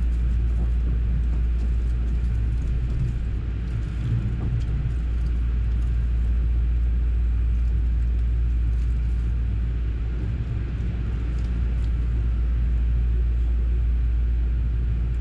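Steady running rumble of a JR West Haruka limited express electric train, heard from inside the passenger cabin.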